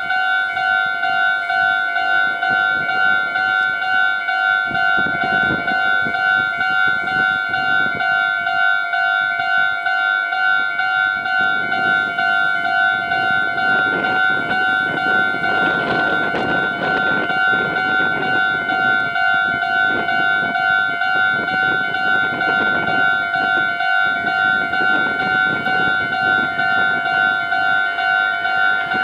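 Japanese level-crossing alarm bell ringing steadily with a regular electronic ding, about two strokes a second. A train runs past from about twelve seconds in, its wheels and motors rising and falling under the bell.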